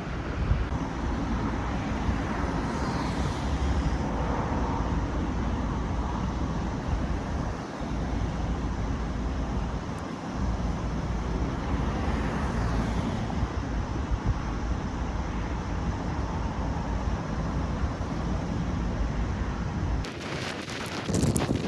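Strong wind buffeting the microphone with a heavy low rumble, and road traffic passing through it; cars hiss by twice. Near the end the gusts turn harsher and crackling.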